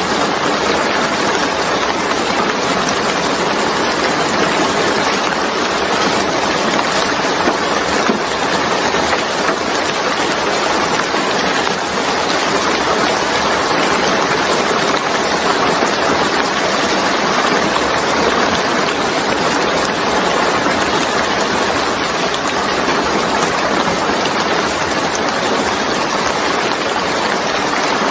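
Steady, even rain, a constant hiss of falling drops with no breaks or changes.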